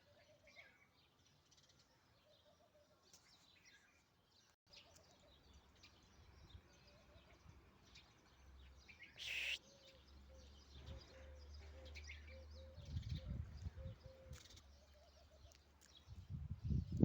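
Birds chirping intermittently, faint against outdoor background noise. About nine seconds in there is a short, louder rushing burst, and low rumbling comes and goes in the second half.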